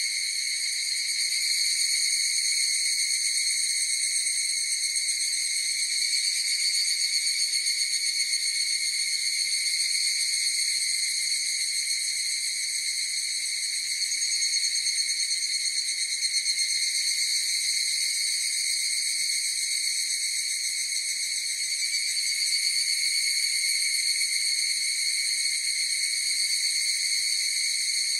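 Higurashi (evening cicadas) calling: one unbroken, high, buzzing trill with a fine fast pulse, swelling and fading gently in loudness every few seconds.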